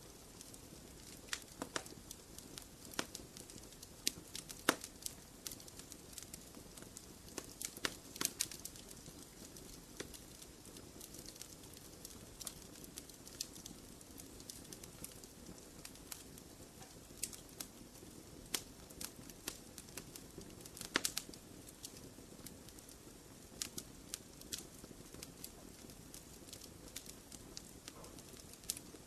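Wood fire burning in a fireplace, crackling with irregular sharp pops and snaps over a steady low hiss.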